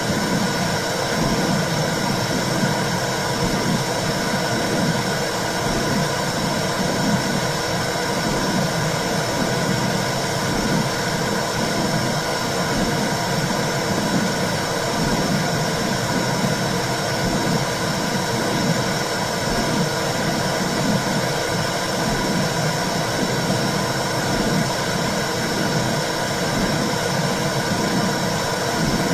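Womb sound for calming a baby: a steady whooshing hiss with a low, rhythmic pulsing that repeats without a break.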